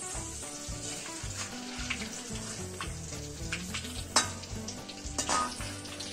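Curry leaves sizzling in very hot wood-pressed groundnut oil in a wok over full flame: a steady hiss with scattered sharp crackles and spits, the loudest about four seconds in and again just after five.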